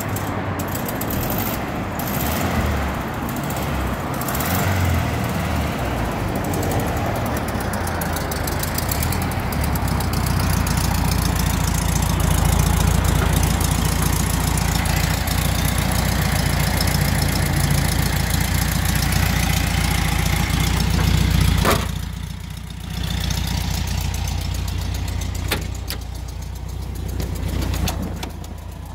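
Volkswagen Beetle's air-cooled flat-four engine running at a steady idle. It is loudest midway through and drops off sharply about three-quarters of the way in.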